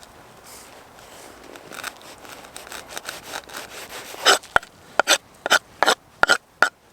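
Faint handling noise, then about six short, sharp clicks in the second half as the woody ends are taken off a bunch of pine needles.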